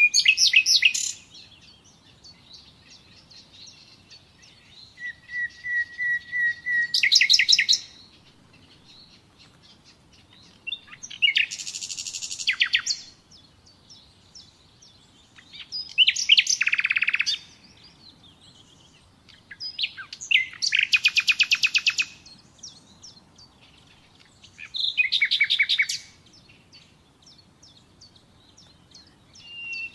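Common nightingale singing in separate phrases a few seconds apart. Each phrase is a fast run of repeated notes, and one begins with a long steady whistle before breaking into a rapid trill.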